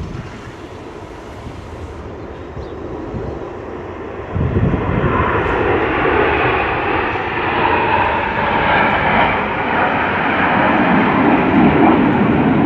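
Aircraft flying over, a steady engine noise that swells sharply louder about four seconds in and stays loud.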